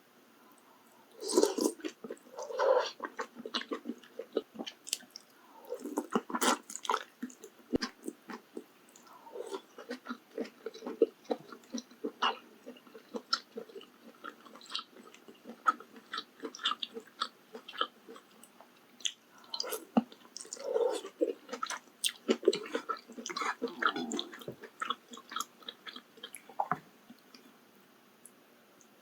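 Close-miked chewing and biting of maratang, a steady run of wet mouth clicks and smacks that stops about two seconds before the end.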